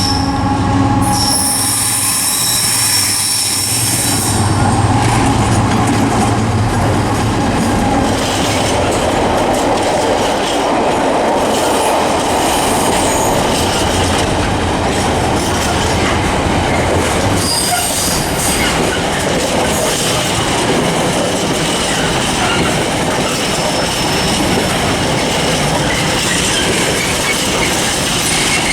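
A Freightliner Class 70 diesel locomotive passes through with a freight train. Its engine note is heard in the first few seconds, then the long line of freight wagons rolls by, wheels clicking over the rail joints and squealing on and off.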